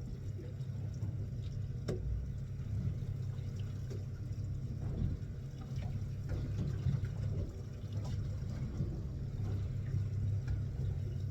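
Fishing boat's engine running steadily with a low drone, with water splashing and sloshing and a sharp knock about two seconds in.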